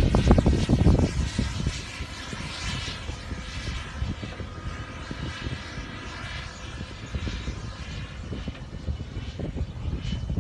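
Twin electric ducted fans of a Freewing F-22 RC jet whining in flight, with wind buffeting the microphone, heaviest in the first second.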